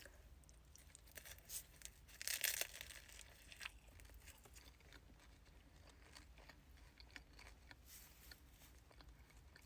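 Faint crinkling and tearing sounds from handling a wrapped vanilla slice, with a louder rustle about two seconds in and light clicks through the rest.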